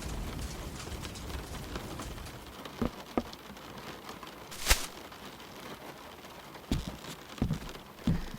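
Rain falling steadily, its low rumble thinning out over the first few seconds. A few scattered knocks from about three seconds in, with one sharp, loud click near the middle.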